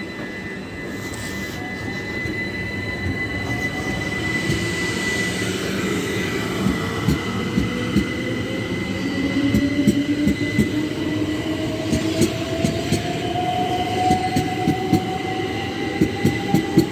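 A Class 375 Electrostar electric multiple unit pulling away and accelerating. Its traction motor whine rises steadily in pitch while the wheels click over rail joints, the clicks coming faster as the train speeds up.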